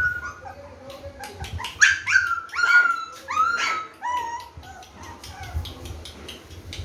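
German Spitz puppy yipping: a quick run of short, high-pitched yips about two seconds in, each sliding down in pitch, followed by fainter whines.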